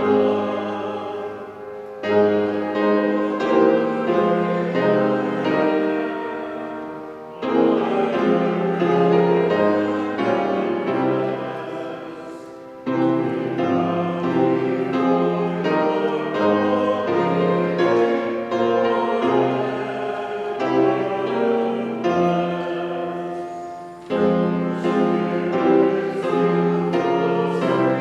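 A hymn sung by voices in a church, with keyboard accompaniment, in phrases of several seconds, each starting again after a brief pause.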